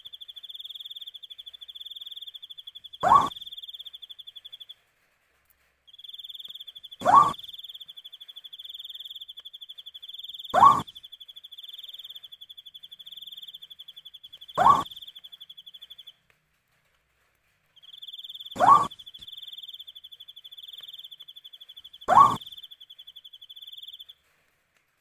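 An owl gives a short call six times, about every four seconds, over a steady pulsing cricket trill. The trill drops out twice.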